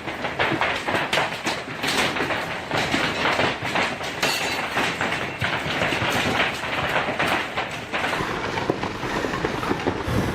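Hailstones pelting a house in a dense, continuous clatter of impacts.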